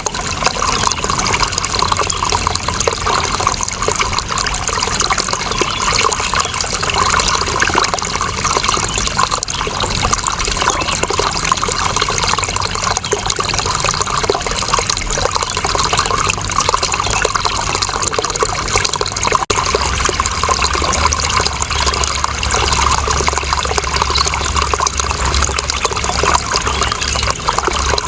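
Water flowing steadily, a continuous dense splashing with no pauses. It is broken by a split-second dip about two-thirds of the way through.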